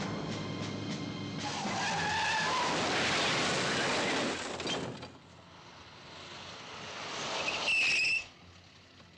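Car chase sound in a film soundtrack: an Aston Martin DB5 running hard with tyres squealing and skidding, then a second skid that builds to a loud screech about eight seconds in and cuts off abruptly.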